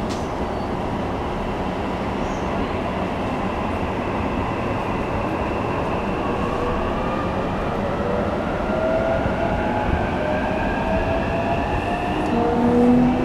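Running sound of a JR East E233 series 3000-number electric train heard inside the passenger car: a steady rumble of wheels on rail, with a motor whine climbing slowly in pitch as the train gathers speed.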